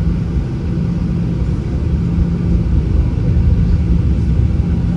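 Inside the cabin of a Boeing 737-800 during takeoff: a loud, steady low rumble from its CFM56 jet engines and the airframe, with a steady hum running through it, growing a little louder.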